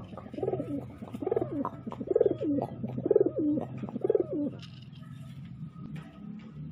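Domestic pigeon cooing: a run of about five rising-then-falling coos, roughly one a second, over a low steady hum. The coos stop a little past halfway, and the hum carries on alone.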